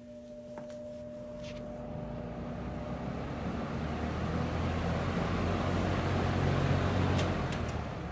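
1980s box fan running: a low motor hum, with the whoosh of air from the spinning blades building steadily over several seconds. Near the end it peaks, then eases off.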